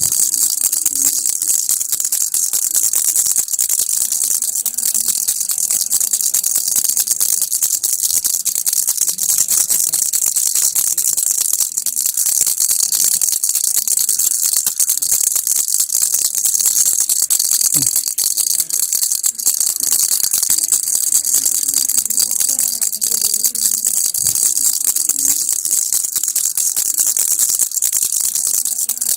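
Baby rattle (kilukki) shaken continuously: a fast, steady, dense rattle of small beads or pellets inside the toy, bright and high-pitched, with no pauses.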